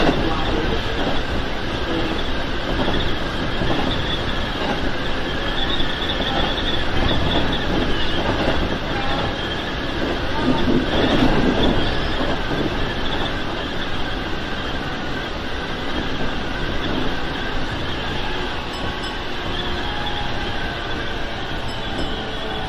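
Keikyu 1000-series electric train running at speed, heard from inside the front cab: the continuous rolling noise of wheels on rails, swelling slightly louder about eleven seconds in.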